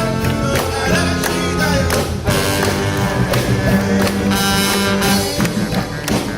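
A big band playing live, with brass and a rhythm section keeping a steady beat.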